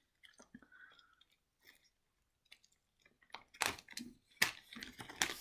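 Close chewing and biting of a cookie eaten straight from its clear plastic bag, faint at first; from about three seconds in, a run of louder sharp crackles as the plastic wrapper is handled.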